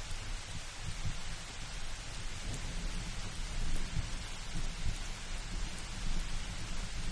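Steady rain hiss with a low, uneven rumble of thunder that builds in near the start and rolls on.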